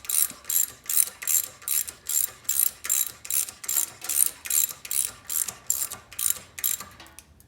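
Hand ratchet wrench clicking in quick, even strokes, about three a second, as it is worked back and forth. It stops about seven seconds in.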